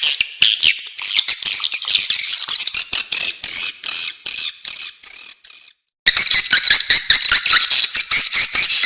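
Recorded chirping and twittering of a flock of swiftlets, dense and high with many sharp clicks: a swiftlet call of the kind played to lure the birds in. It fades out about five seconds in and, after a short silence, starts again loudly about a second later.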